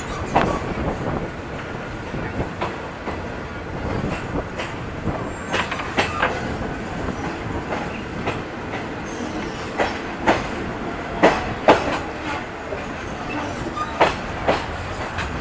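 Passenger train carriage rolling along the track, heard from inside at an open window: a steady rumble and rattle from the wheels and car body, with sharp clickety-clack knocks of the wheels over rail joints every few seconds. The loudest knocks come about two-thirds of the way in.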